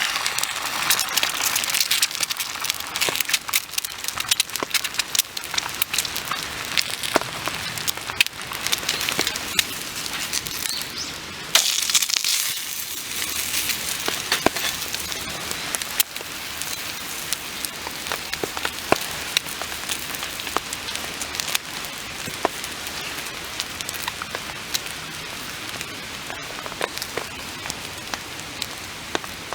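Rain pattering on a tarp, a steady hiss dotted with sharp drop clicks. It is louder and busier for the first half, then settles to a steadier, slightly quieter patter.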